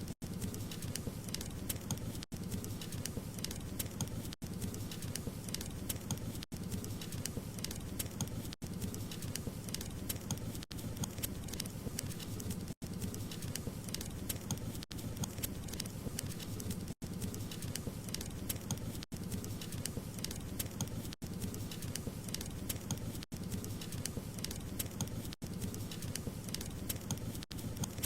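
Wood fire crackling steadily: many small snaps over a low, even rush of burning. The sound is cut by brief silent gaps about every two seconds.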